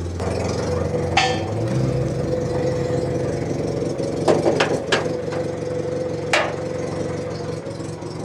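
A steady hum with several sharp knocks: one about a second in, a quick cluster around four to five seconds, and one more a little after six seconds.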